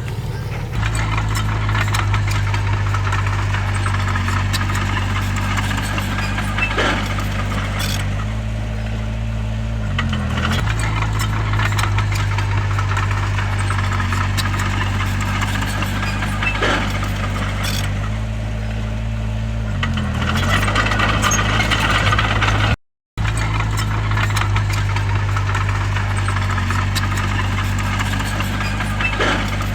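Bulldozer's diesel engine running steadily under work, its pitch dipping and recovering twice, with a few sharp clanks. The sound cuts out for an instant about two-thirds of the way through.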